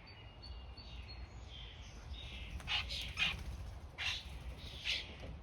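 Birds calling: a few thin, high, short whistles in the first second, then four harsh, scratchy calls in the second half, each a fraction of a second long.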